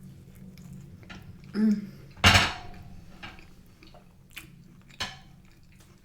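Cutlery and crockery clinking at a meal: a dull knock, then a loud sharp clink with a brief ring about two seconds in, and a smaller click near the end.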